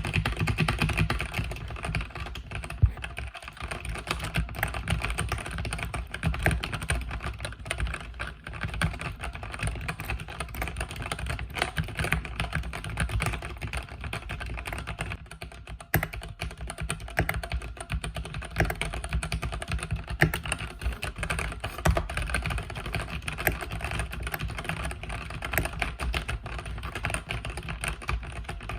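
Mechanical keyboard with red (linear) switches being typed on quickly and continuously, a dense stream of key clacks with no breaks.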